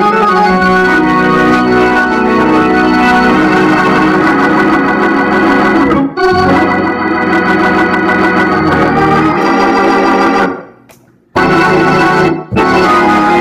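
Organ-like keyboard playing loud, held chords, broken briefly about six seconds in and stopping for a moment near eleven seconds before starting again.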